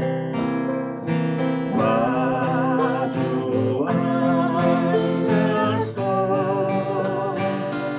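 Acoustic guitar playing with a voice singing a melody, the voice wavering with vibrato from about two seconds in until about six seconds.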